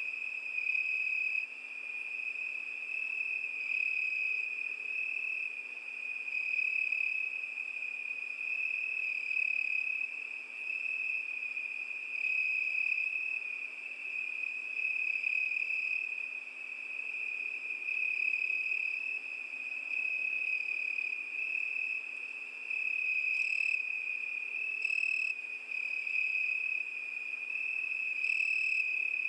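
Crickets chirping in a continuous high-pitched trill, swelling and fading every second or two.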